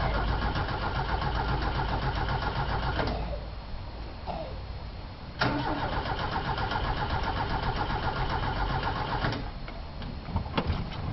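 Starter motor cranking a 1987 Nissan Maxima's engine in two attempts of a few seconds each, with a pause between. The engine turns over rhythmically but does not catch: the car won't start.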